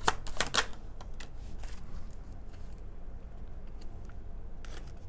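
Tarot cards being handled as clarifier cards are shuffled and drawn. A quick run of crisp card clicks comes in the first half-second, then faint scattered ticks, and one more soft card sound near the end, over a low steady hum.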